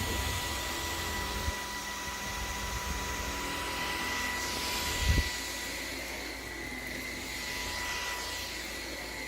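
Dreame T10 cordless stick vacuum running steadily with a constant high whine over its airflow hiss, with a single knock about five seconds in.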